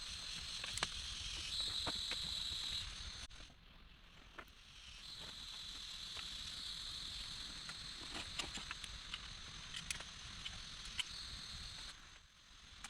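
Rain falling with scattered sharp drips, over a steady high insect drone. The sound drops away briefly about three seconds in and again near the end.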